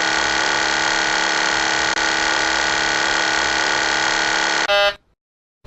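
Airliner cockpit warning sounding as a loud, continuous, even buzzing rattle; near the end it gives way to a brief different tone and then cuts off to silence.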